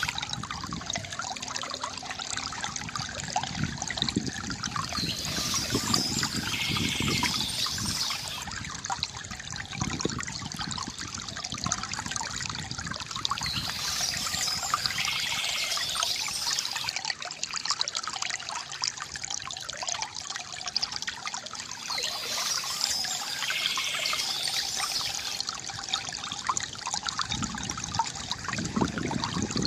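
Water from a bamboo fountain trickling and pouring steadily, with a brighter, higher swell of sound coming back about every eight seconds.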